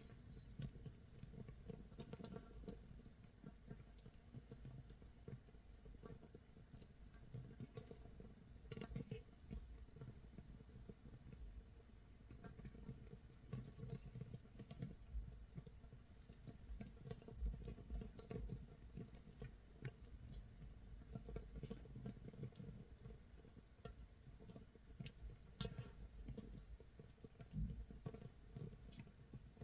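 Makgeolli starter mash (mitsul) fermenting in a jar 24 hours in: a faint, dense, steady crackle of countless tiny bubbles popping, like rain or scorched rice crisping.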